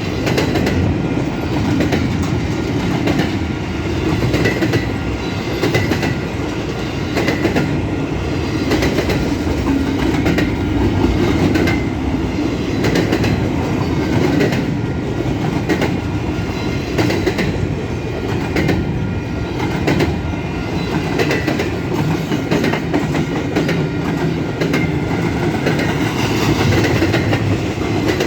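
Long freight train's cars rolling past at speed: a steady rumble of steel wheels on rail with a regular clickety-clack as the wheelsets cross rail joints, and faint intermittent wheel squeal.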